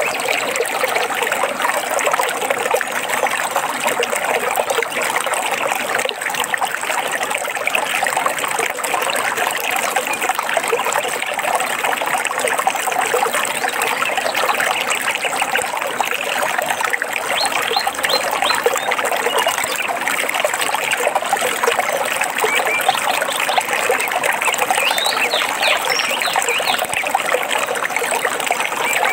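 Water trickling and babbling steadily, like a small stream, with a few short, high bird chirps in the second half.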